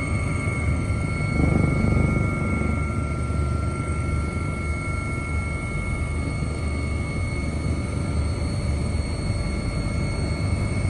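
Steady low mechanical rumble with several constant high whines over it, swelling briefly about a second and a half in.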